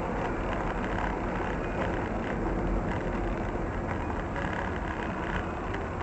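Steady road and engine noise of a moving car, recorded from inside the cabin by a dashcam microphone.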